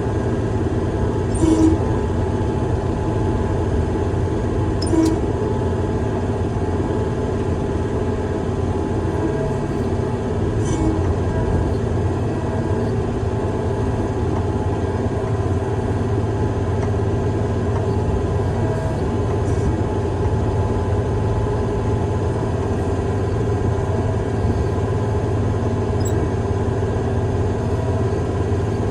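Heavy machine's engine running steadily, with two short metallic clanks about a second and a half and five seconds in.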